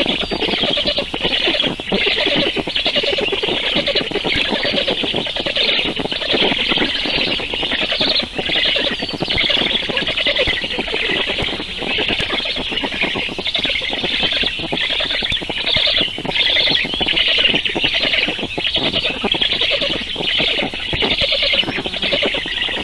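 Baby birds begging to be fed, a continuous shrill chorus of rapid, overlapping squeaky calls.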